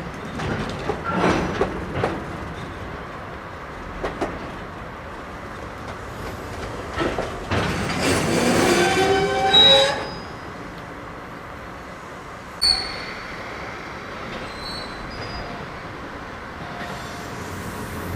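A slow-moving train's wheels squealing against the rails, with scattered clanks. The squeal is loudest midway, where several rising tones sound together for a few seconds; a short sharp squeal comes a little later.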